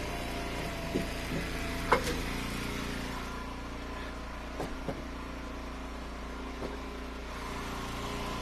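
Engine of an Eastonmade Ultra hydraulic log splitter running steadily, with a few sharp knocks, the loudest about two seconds in.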